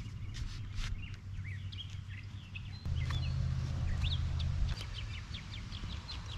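Many birds chirping, short high calls coming quickly one after another, over a low rumble that grows louder from about three seconds in and drops back near five seconds.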